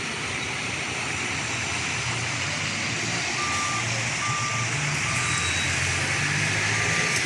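A vehicle's reversing alarm beeping in an even rhythm, a little more than once a second, starting about halfway through, over a running engine's low hum and steady background noise.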